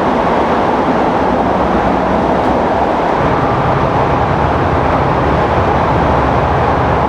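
MTR passenger train running on the line, heard from inside the carriage: a steady, loud rumble of wheels and motors with the low part of the rumble changing about three seconds in.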